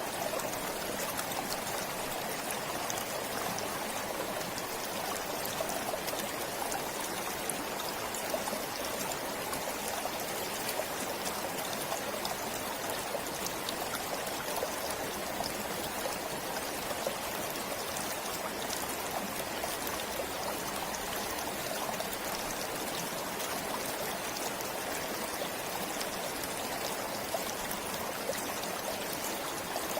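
Forest stream flowing steadily over rocks, a continuous rush of water with fine trickling and splashing.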